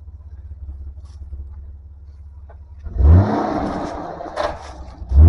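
Off-road 4x4's engine rumbling low, then revving hard about three seconds in with a rising pitch and a loud rush of noise, followed by two heavy low thumps near the end.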